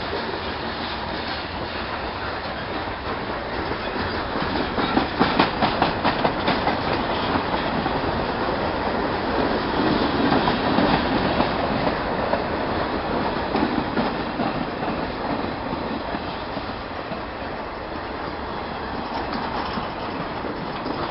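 Freight train cars rolling past, a steady rumble of steel wheels on rail with clickety-clack over the rail joints, loudest as a run of quick clicks about five seconds in and again near the middle.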